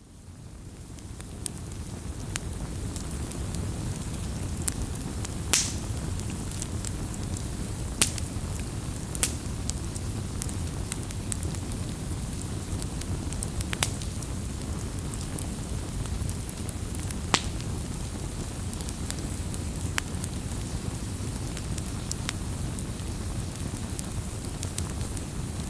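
Firewood burning: a steady low rumble of the fire with sharp crackles and pops every second or few, the loudest about five and a half seconds in. The sound fades in at the start.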